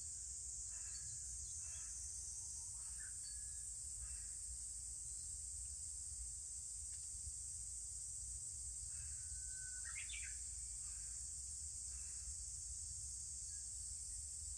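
A continuous high-pitched drone of cicadas, with birds chirping now and then, including a rising call about ten seconds in.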